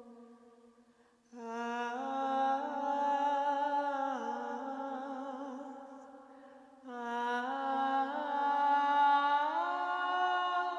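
Wordless vocal toning in a sound-healing journey: one voice holds long notes, in two phrases starting about a second in and again near seven seconds. Each note slides gently in pitch with a slight wavering.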